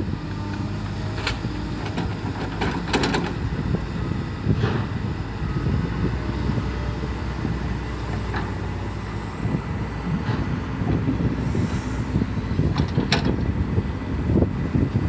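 Excavator's diesel engine running steadily, with several sharp metallic clanks and knocks scattered through it.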